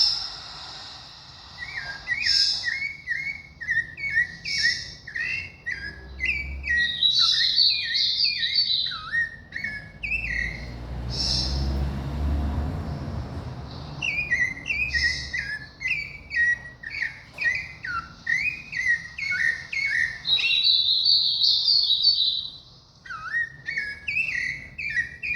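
Sabiá thrush singing: long runs of quick, short whistled notes with higher rapid phrases mixed in, breaking off for a few seconds in the middle, where a low rumble is heard, then starting again.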